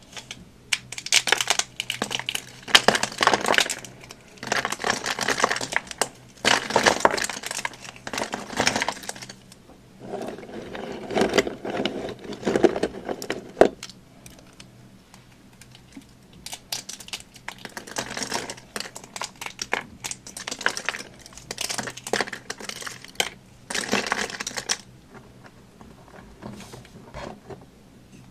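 Close-up crunching of dry soap and starch being squeezed and broken by hand, in repeated bursts of a second or two with short pauses between. The crunches have a crisp, crackly edge.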